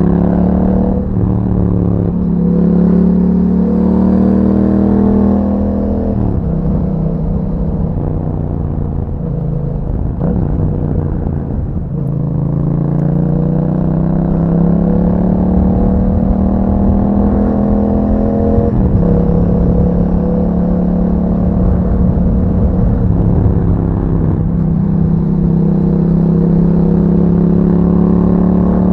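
Yamaha MT-07's 689 cc parallel-twin engine through an Akrapovic exhaust, heard while riding. Its pitch drops about six seconds in, climbs steadily under acceleration for several seconds, drops suddenly as it shifts up, then holds a steady note.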